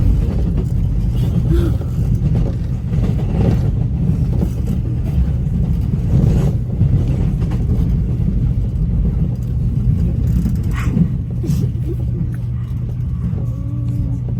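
Line 1 subway train running, a steady low rumble heard from inside the carriage.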